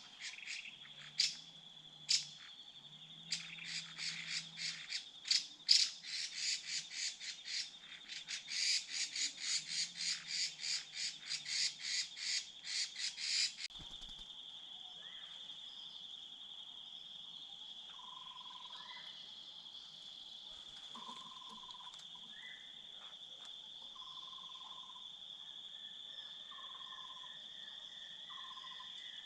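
A bird giving rapid, harsh repeated calls, several a second, over a steady high-pitched insect drone. About halfway the calls stop abruptly and the insect drone continues, with short repeated notes coming in during the second half.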